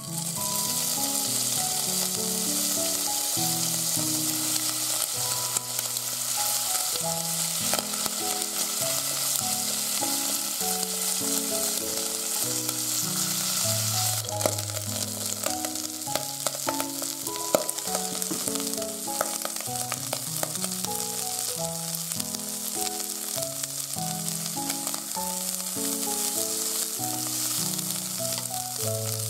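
Bacon strips and then broccoli florets sizzling as they fry in olive oil in a stainless steel saucepan, stirred with chopsticks, with a few sharp clicks around the middle. Light background music with plucked keyboard notes runs underneath.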